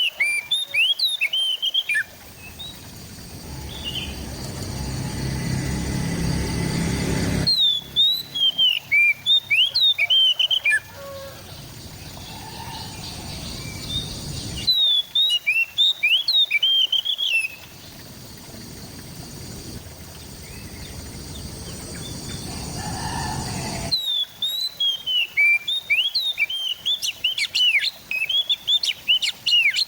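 Oriental magpie-robin (kacer) singing in repeated bursts of quick, falling whistled notes, each burst a few seconds long and starting and stopping abruptly. A low rumbling background noise swells in the gaps between bursts.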